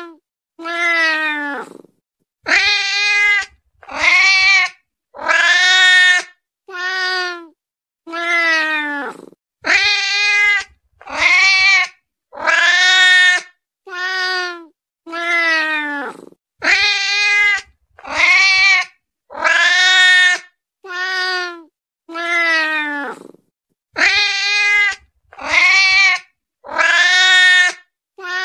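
A domestic cat meows over and over, about one meow every second and a half with short silences between. Each call drops in pitch at its end. These are the insistent meows of a hungry cat.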